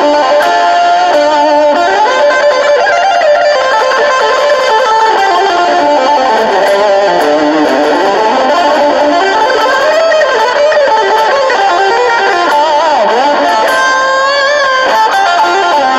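Electric guitar from a Strat-style guitar with a humbucker, overdriven through an amp set up to imitate a British amplifier, with treble pushed and deep reverb, playing a continuous lead line with string bends and vibrato.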